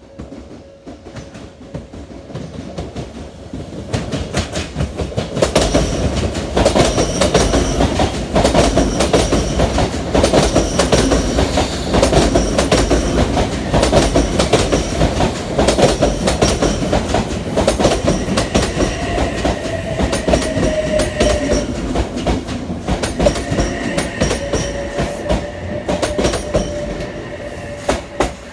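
Odakyu Electric Railway train running past, its wheels beating out a "dadan, dadan-dadan" joint sound over the rail joints. The rumble builds over the first few seconds and then holds loud and steady for more than twenty seconds.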